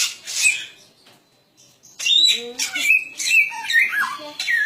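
Cililin bird singing a run of quick, gliding whistled notes. It goes quiet for about a second, then starts up again about two seconds in with a busier burst of notes.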